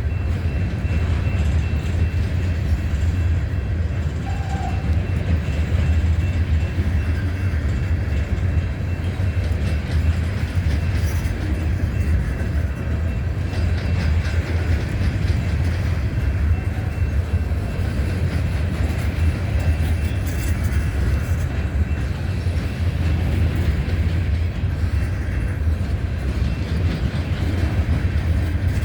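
CSX freight train cars rolling past on the track, a steady low rumble of wheels on rail that continues without a break.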